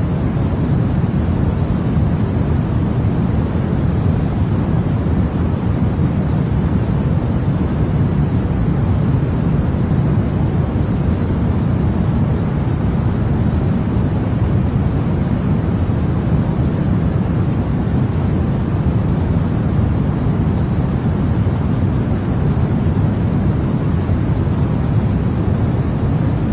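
Continuous steady noise of a baby-sleep 'white noise' track: an even, unbroken rush weighted toward the deep end, with no change in level.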